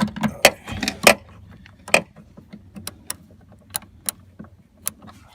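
Irregular metallic clicks and clinks of a socket wrench and the loose 10 mm hinge bolts being handled while the door hinge is unbolted, loudest and closest together in the first two seconds.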